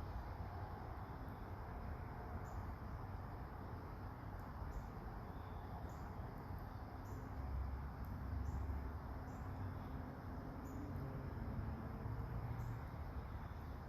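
Outdoor ambience in light autumn rain: a steady low rumble and hiss, with faint short high chirps about once a second.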